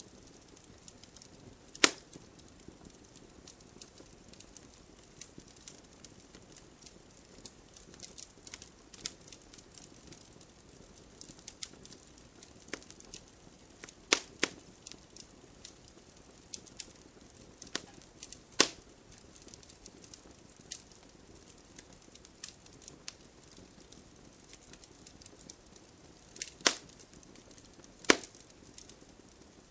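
Wood fire crackling with frequent small ticks and a handful of loud, sharp pops, over a faint steady hiss of rain.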